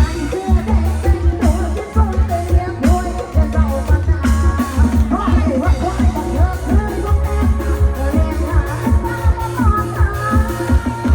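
Loud live music from a Thai rot hae sound-truck band: a heavy, pulsing bass beat with drums under a bending melody and singing, picked up by the camera's microphone.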